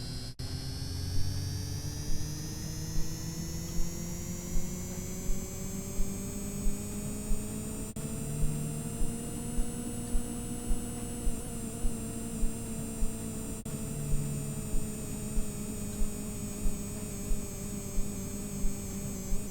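Washing machine motor whining as the drum speeds up. The pitch rises for about ten seconds, then holds roughly level. A regular thump comes a little more than once a second.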